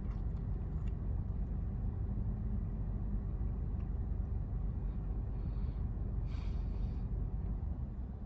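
Steady low rumble, with a short rustling noise about six seconds in.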